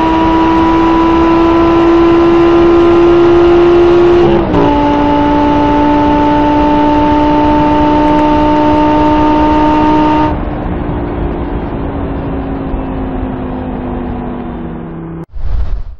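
Audi R8 GT Spyder's V10 at full throttle at high speed, heard from inside the cabin, its note rising slowly; about four seconds in the gearbox shifts from fifth to sixth and the pitch drops. About ten seconds in the throttle is lifted and the engine turns quieter, its pitch falling slowly as the car slows. Near the end the sound cuts out for a moment, followed by a short loud burst.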